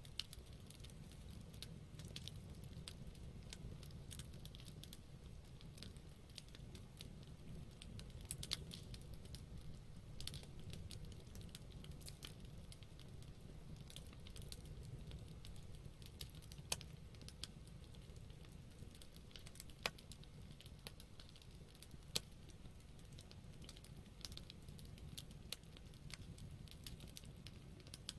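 Wood campfire burning, with irregular sharp crackles and pops over a soft low rush of the flames; a few louder pops stand out.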